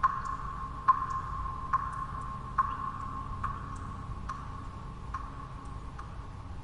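Water drops falling in a steady rhythm, a little faster than one a second, each a bright plink with a short ringing tail, with fainter, smaller drips in between. Under them runs a low, steady white noise.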